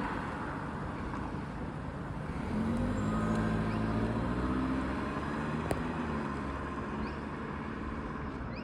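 Passing road traffic, with a vehicle's low humming drone that swells and then fades a few seconds in, and a single sharp click near the middle.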